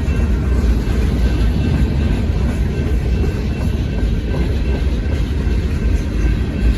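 Freight train rolling past at close range, with a steady heavy low rumble of wheels on rail.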